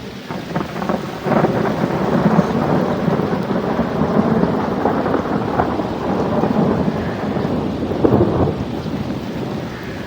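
Long rolling thunder rumble over steady rain, swelling about a second in and surging again near the end.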